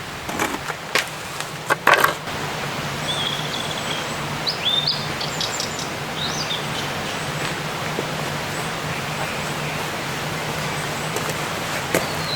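Forest ambience: a steady background rush with a low hum, small birds chirping a few times, and a few sharp wooden knocks in the first two seconds.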